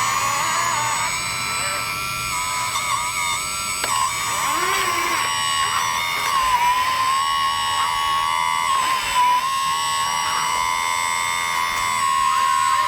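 Electric motors and hydraulic pump of 1/14-scale RC construction models whining: a steady high tone that steps up and down and glides in pitch as the machines work.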